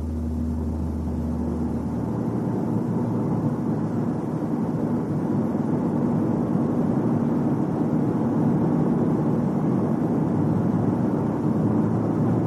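Car running at road speed, heard as a steady rumble of road and drivetrain noise that slowly grows louder, with a low hum in the first couple of seconds.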